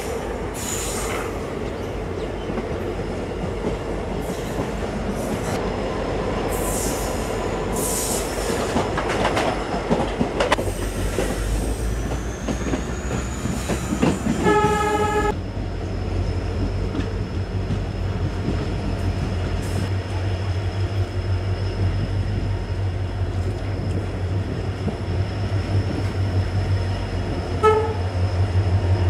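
Diesel-hauled passenger train running, its wheels clattering and rumbling on the rails. The WDP4 locomotive's horn sounds for about a second about halfway through, with a short toot near the end.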